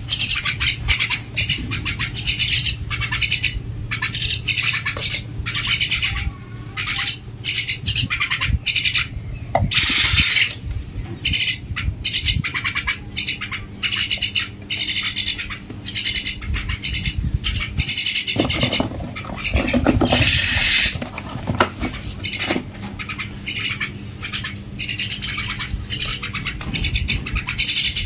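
Common myna making harsh, squawking calls in quick, repeated bursts.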